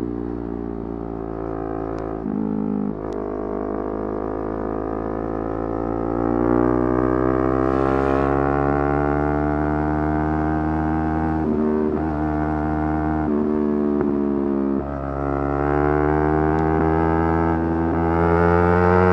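Yamaha R3's parallel-twin engine revving hard, its pitch climbing steadily under load. Several times the revs drop briefly and then climb again, and the longest dip comes a little past the middle.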